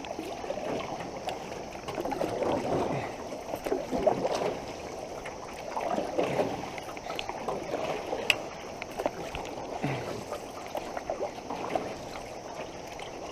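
Fast flood water rushing and splashing around a canoe, with paddle strokes about every two seconds and a few sharp knocks.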